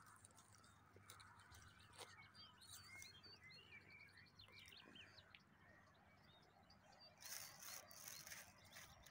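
Faint chirping of small birds, a run of short quick calls, followed near the end by a brief louder rustle.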